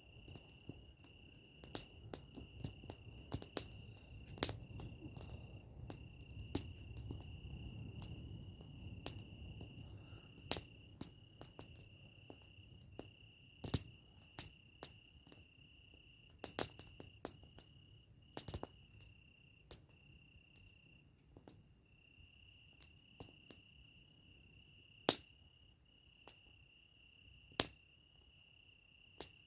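Campfire crackling, with sharp irregular pops and snaps. Behind it, a steady high insect trill.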